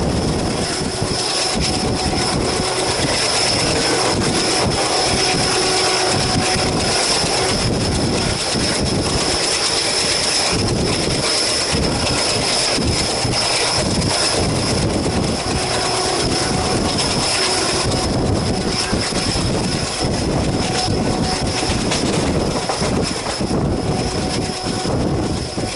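Train running at speed on the rails: a steady rumble of wheels on track with constant fine clatter.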